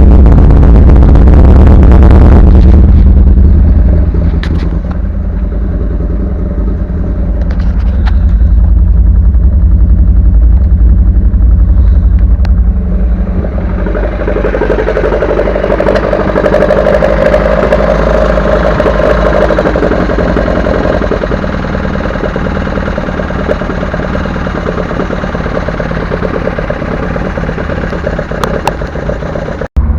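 Volkswagen Golf 1's 2.0 8-valve inline-four on twin Weber 40DCOE carburettors with a Supersprint exhaust and 4-2-1 headers, running with the engine note rising and falling several times. There is a brief cut just before the end.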